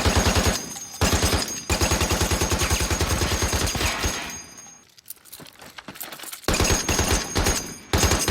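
Machine-gun fire in a war-film battle scene: a couple of short bursts, then a long burst of rapid, evenly spaced shots lasting about two and a half seconds, a lull, and two more bursts near the end.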